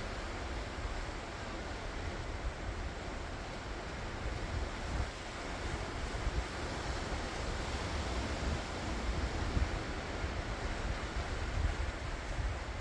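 Ocean waves washing and breaking on the shore in a steady surge, with a low rumble of wind on the microphone.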